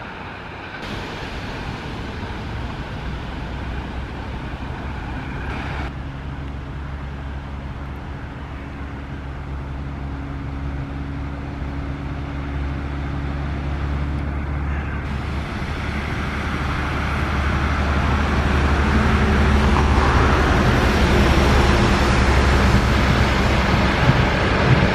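A train approaching along the line: a steady low hum and rumble that grows steadily louder.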